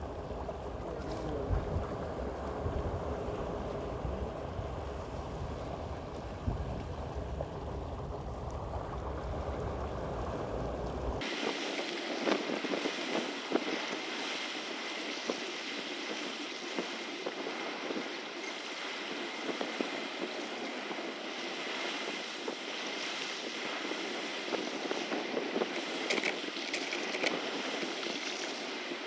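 Outdoor wind and water noise: wind buffeting the microphone with water washing, changing abruptly about a third of the way through to a thinner, hissier wash with scattered small clicks once the deep rumble drops out.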